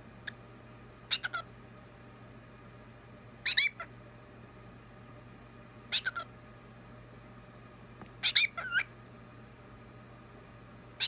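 Cockatiel making short, high-pitched calls, five brief bursts spaced a couple of seconds apart.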